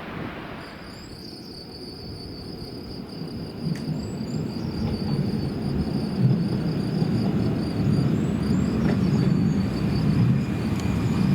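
A Rhaetian Railway train approaching: a low rumble of running gear that grows steadily louder, with a thin high wheel squeal setting in near the end.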